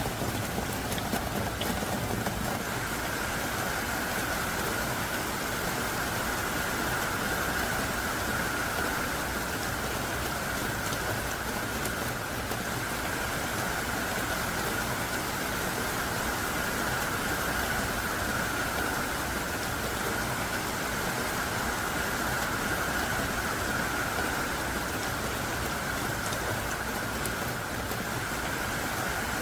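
Heavy, pouring rain: a steady, even hiss with no breaks.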